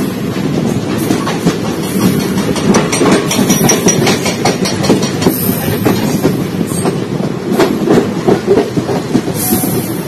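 Passenger coach of an express train running along a station platform, heard from its doorway: a loud, steady rumble with the wheels clacking over rail joints as the train pulls into the station. Brief high-pitched sounds come in about halfway through and again near the end.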